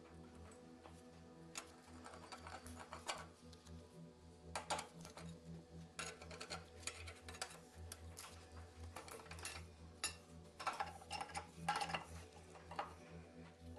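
Irregular metallic clicks and clinks of hand tools and metal engine parts being handled during a diesel engine teardown, over a low steady hum.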